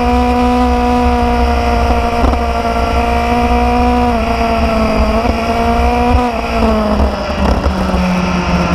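Motorcycle engine running steadily under way, its pitch sagging gently and then dropping lower about seven seconds in.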